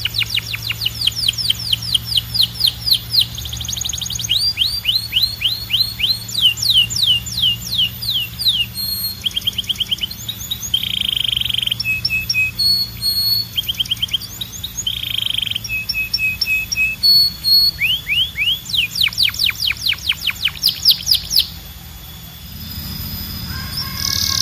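Male canary singing: fast trills of rapidly repeated sweeping notes, broken by short buzzy rolls and steady whistled notes. The song stops briefly near the end.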